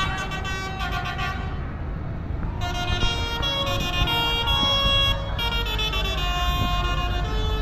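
Tractor engines running with a low rumble, and a tune of held notes that steps from pitch to pitch over them, starting about two and a half seconds in.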